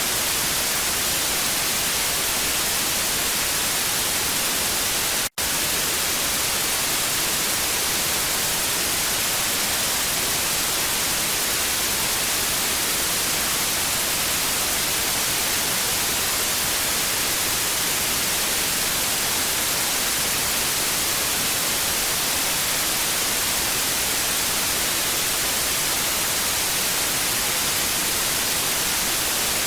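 Analog TV static: a steady, even hiss, strongest in the treble, with a split-second dropout to silence about five seconds in.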